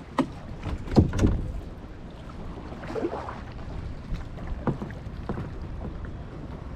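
Small plastic kayak on the water: water splashing and lapping against the hull, with a few sharp knocks, two close together about a second in. Low wind rumble on the microphone.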